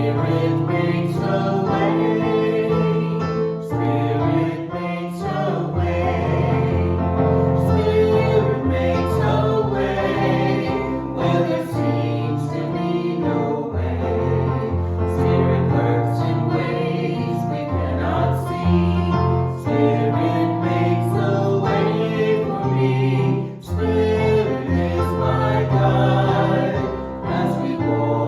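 Church music team singing a congregational song together, several voices over instrumental backing with a bass line and a steady beat.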